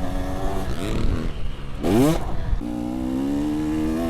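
Dirt bike engine under throttle: uneven early on, a quick sharp rev rising in pitch about two seconds in, then a steady pull at held throttle.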